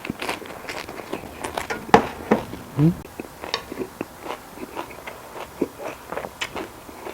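Close-up eating sounds of a person biting and chewing food, likely a lettuce wrap of grilled pork belly, with many short crisp clicks. There is a short rising hum about three seconds in.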